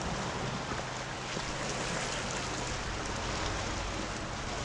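Steady wash of water on a rocky shoreline: small waves running over stones and seaweed.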